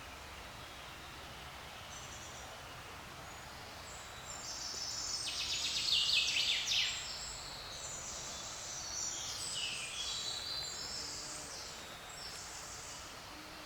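A songbird singing rapid, high trilling phrases, some of them falling in pitch. The song starts about four seconds in and is loudest around six seconds, over a faint steady background of forest noise.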